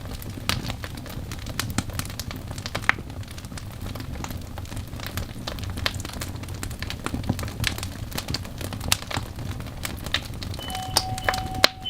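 Wood fire in a fireplace crackling and popping with irregular sharp snaps over a steady low rumble of flames. Near the end a couple of steady tones begin.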